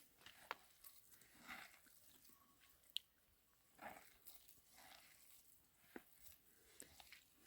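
Near silence with faint, scattered clicks and soft rustles.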